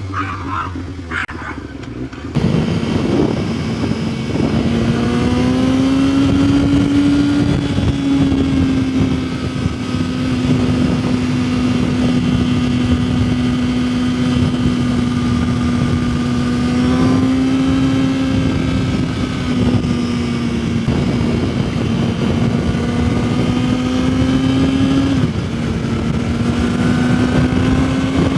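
Yamaha R6's inline-four engine running at steady high revs under way, over wind rush. It gets suddenly louder about two seconds in, its pitch climbs gently a few seconds later, and near the end it dips sharply and climbs again.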